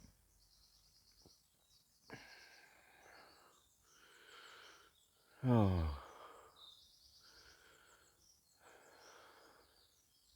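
Birds chirping and trilling in woodland, faint and repeated, with a man letting out a long falling "oh" about halfway through.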